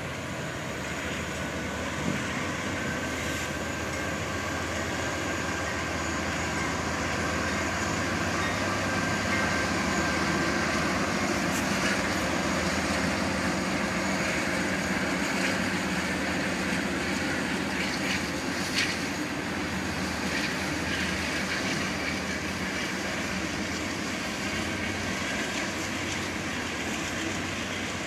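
CSX freight train passing at a steady speed: its diesel locomotives running by, then a long string of boxcars, tank cars and covered hoppers rolling past on the rails, with a couple of sharp clanks in the middle.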